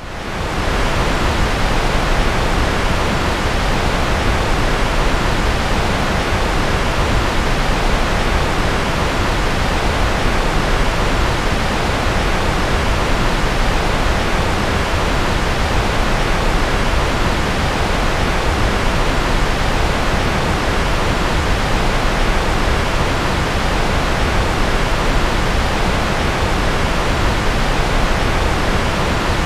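Steady electronically generated noise: an even, unbroken hiss weighted toward the low end like pink noise. It swells back up from a brief dropout at the very start.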